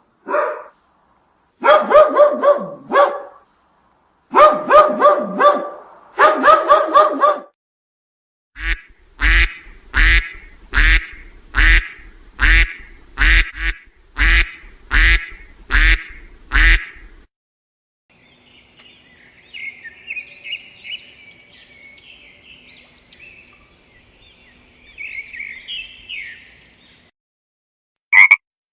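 A run of animal calls: waterfowl calling in rapid runs of notes, then about a dozen loud, evenly spaced calls a little under a second apart, then fainter high chirping over a low steady hum.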